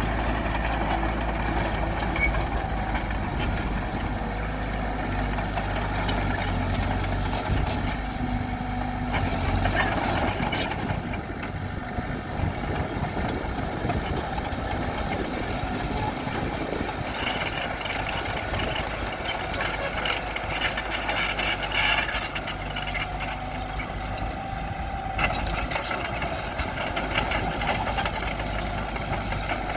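Bulldozer's heavy diesel engine running steadily, with clanking and grinding from its tracks and the rocks it pushes; the clatter is busiest in the second half.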